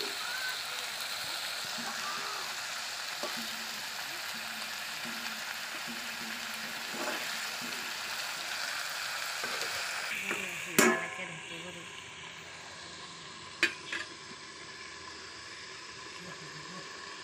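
Jackfruit and potato pieces sizzling in oil in a wok while being stirred with a spatula. About eleven seconds in there is a sharp, ringing metal clank, after which the sizzle is quieter, and a second clank follows a few seconds later.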